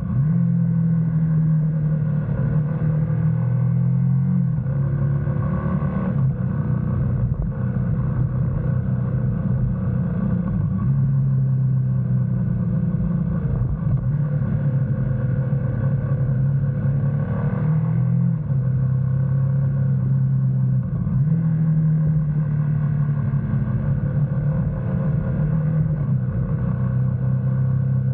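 Motorcycle engine running under way on a BMW GS, its note stepping up and down every few seconds as the throttle and speed change, over a steady low rumble of wind and road noise.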